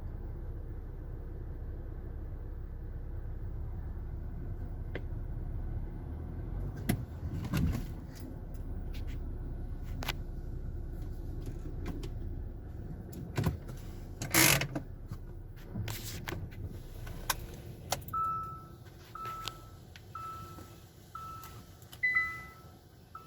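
Car engine idling, with scattered clicks and knocks from inside the car. The engine stops about two-thirds of the way in, and then a car warning chime beeps about once a second.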